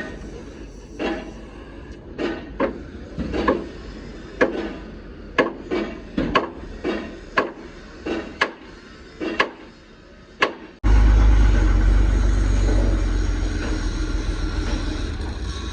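Irregular hammer blows, roughly one or two a second, in truck bodywork repair. About eleven seconds in, a sudden cut to a loud, steady low rumble.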